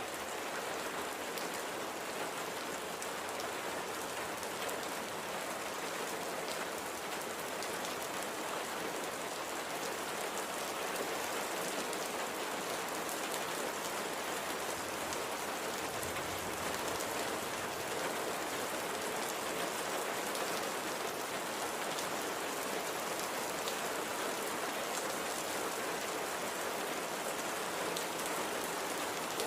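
Light, gentle rain falling steadily, with a dense patter of individual drops on a surface.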